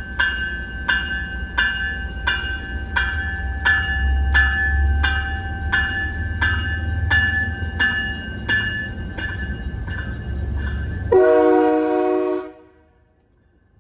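Commuter rail train's bell ringing steadily, about one and a half strokes a second, over the low rumble of the arriving train. About eleven seconds in, a short horn blast, the loudest sound, then the sound cuts off suddenly.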